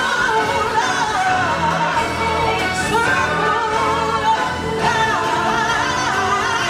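Stage-show singing with orchestral accompaniment: a voice holding long, wavering notes over a full musical backing.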